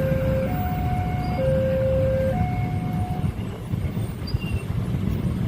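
Level-crossing warning alarm sounding a slow two-tone alternation, a lower and a higher tone each held just under a second, which stops about three seconds in, over a steady low rumble.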